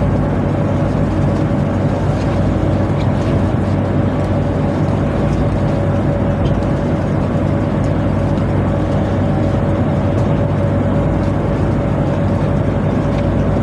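Tugboat machinery running steadily: a loud, even low engine hum with a steady whine above it.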